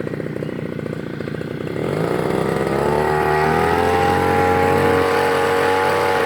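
Brush cutter engine, fitted with a tilling head, running slowly and then revving up about two seconds in, held at high speed, and dropping back near the end.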